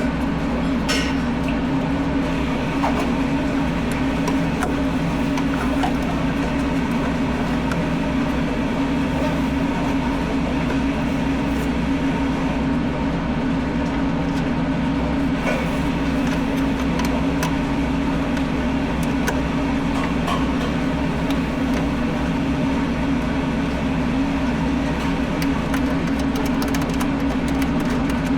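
Steady machine drone with a strong low hum, unchanging throughout.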